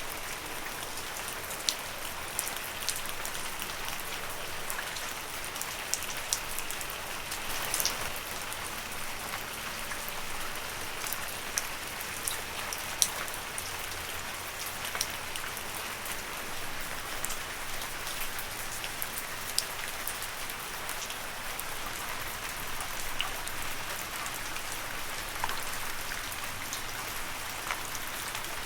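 Steady rain falling on leaves: a constant even hiss with frequent sharp, irregular drop taps.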